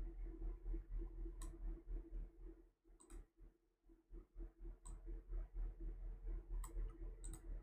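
Scattered computer mouse clicks, faint and irregular, over a steady low electrical hum.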